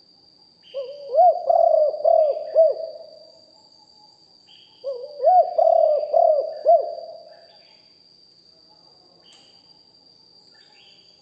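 Spotted dove cooing: two phrases of hoarse, hooting coos, each about two and a half seconds long, a couple of seconds apart. A steady, thin, high-pitched ring sounds behind them.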